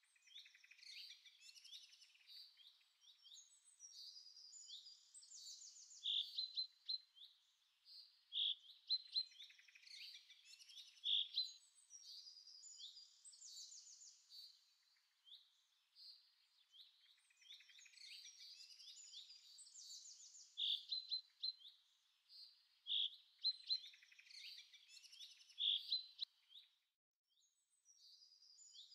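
Birdsong: several birds chirping and twittering, with a loud clear whistled note every two to three seconds. The same run of calls comes round again about halfway through, as in a looped ambient recording.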